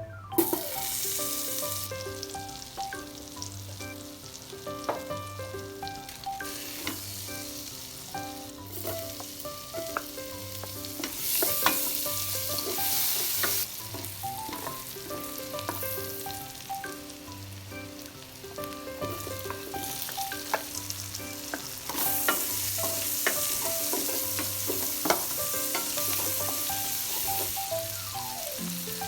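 Food sizzling as it fries in a hot pan and is stirred, with scattered clicks and scrapes of a utensil against the pan. The sizzle swells louder several times, most at the very start, around the middle and over the last third.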